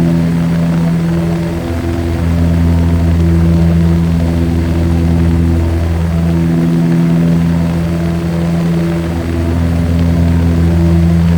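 Propeller airplane engine droning steadily, with a low hum and several steady overtones that swell and ebb slightly.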